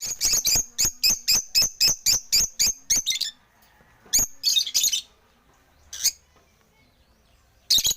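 African lovebirds giving sharp, high-pitched chirps: a fast run of about four a second for the first three seconds, then scattered single calls.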